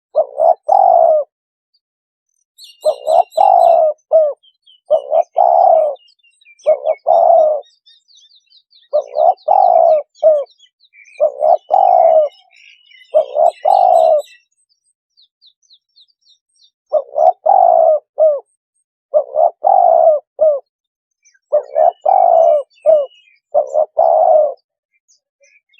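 Spotted dove cooing: a lure call for spotted doves, its phrases repeated about every one and a half seconds with a pause in the middle. Faint, high chirps of small birds run through the first half.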